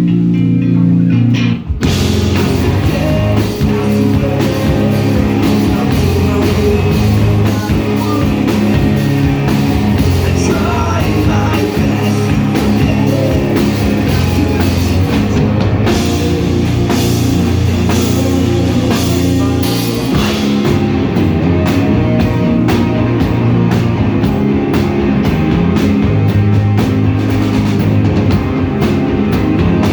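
A rock band playing live: distorted electric guitars, bass and drum kit, with singing. The full band comes in about two seconds in after a quieter opening.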